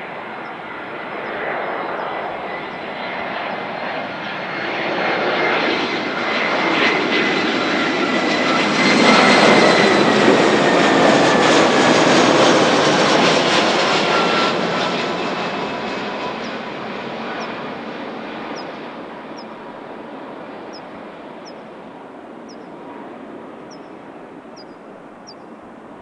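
Airbus A320 jet airliner passing low on landing approach: engine noise swells to its loudest about nine to twelve seconds in, then fades away, with a whine that drops in pitch as it goes by.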